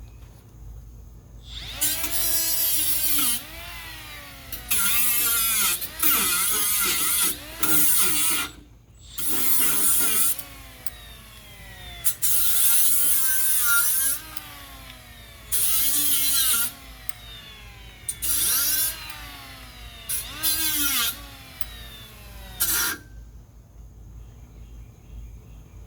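Hand-held electric power tool run in about ten bursts of one to two seconds, its motor whine sagging and recovering under load and winding down in a falling tone each time the trigger is let go.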